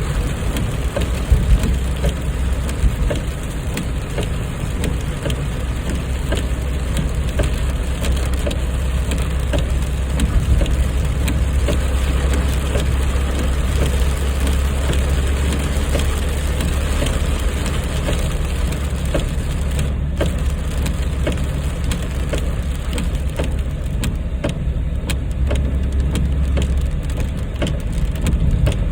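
A 1991 Mazda 929 2.0 GLX driving in the rain: a steady low engine and road drone, with many short clicks of raindrops hitting the car.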